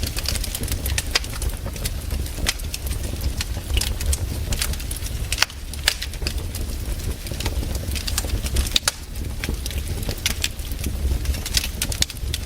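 Wood campfire crackling, with frequent sharp irregular pops over a low steady rumble.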